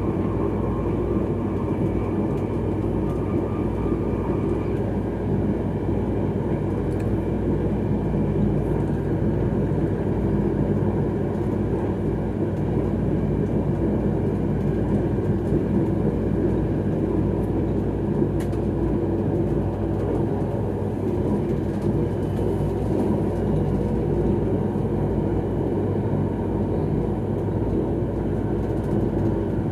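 Steady running noise of an X31 electric multiple-unit train at speed, heard from inside its rear cab: wheels rolling on the rails under a continuous low rumble and hum.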